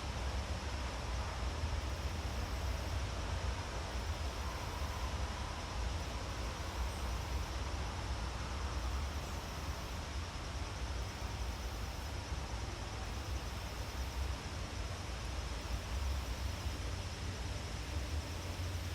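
Steady outdoor forest ambience: an even hiss with a low rumble underneath and a faint, steady high-pitched note, with no distinct events.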